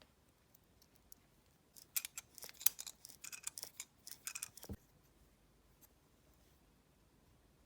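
A run of small sharp clicks and light scrapes, like small hard parts being handled and fitted during a repair, lasting about three seconds from about two seconds in, with a duller knock near the end of the run.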